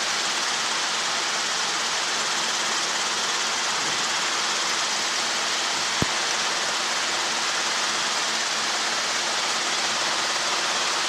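Helicopter engine and rotor noise heard through the aircraft's intercom and headset audio as a steady hiss with a faint low hum, broken once by a sharp click about six seconds in.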